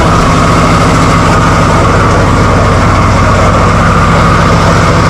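Chrysler 245 Hemi straight-six engine, fed by a Holley 350 carburettor, idling steadily with an even, regular beat.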